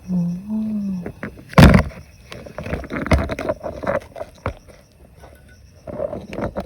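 Handling noise from prospecting work: uneven knocks, scrapes and rustling of rocks and gravel, with one loud knock about a second and a half in. A short hummed voice rises and falls at the start.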